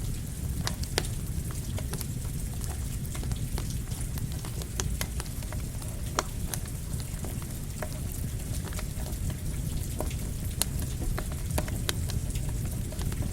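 Campfire crackling, with sharp pops at irregular intervals, over a steady hiss of rain and a low rumble.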